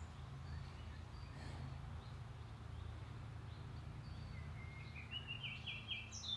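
Quiet outdoor ambience: a steady low rumble with faint high chirps, and about two-thirds of the way in a small bird sings a short run of high notes stepping up in pitch.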